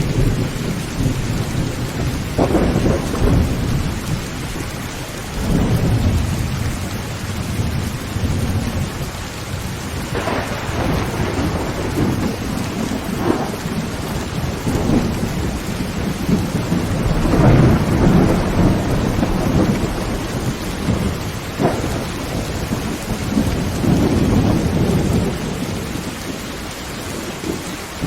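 Heavy rain falling on a tin roof, with rolling thunder that swells and fades several times.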